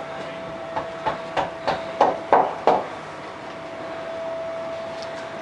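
A quick run of about seven sharp knocks, roughly three a second, the loudest ones a couple of seconds in, over a faint steady hum.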